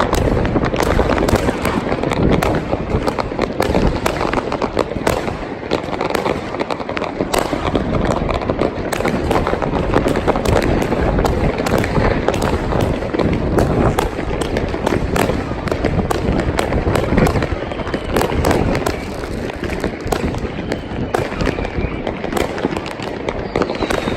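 New Year's fireworks and firecrackers going off all around without a break, a dense crackle of many bangs and pops. A whistling rocket falls in pitch near the end.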